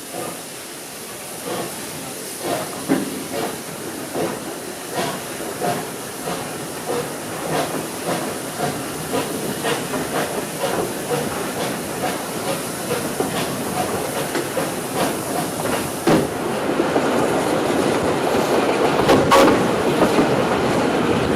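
Rx207 steam locomotive on the move with its train: a steady hiss with a regular rhythmic beat, growing louder and fuller about three-quarters of the way through.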